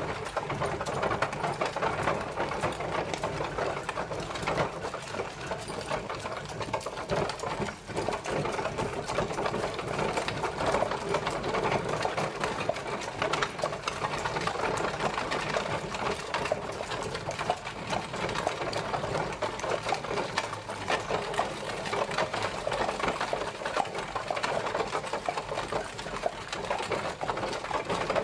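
Horse-drawn carriage travelling: a continuous dense rattle and clatter from the moving carriage, even in level throughout.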